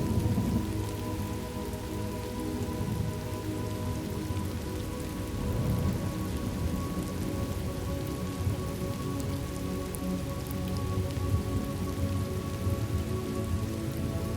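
Thunderstorm ambience: steady rain falling, with low thunder rumbling that swells near the start and again about six seconds in. A soft, held musical drone sits underneath.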